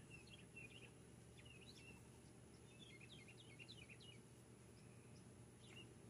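Faint, short chirps of small birds in quick clusters, over a low steady background hum.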